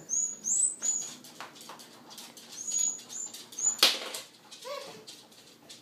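Dog whining in a run of short, high-pitched whimpers, with a short sharp noise about four seconds in.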